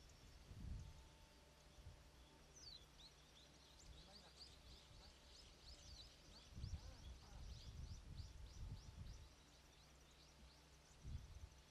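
Small birds chirping in a quick, dense run of short high notes, faint against a low rumble of wind on the microphone.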